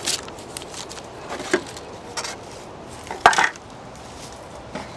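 Knocks and clatter of an old bird feeder being handled as its makeshift cover is taken off: a few light knocks, then one louder knock about three seconds in.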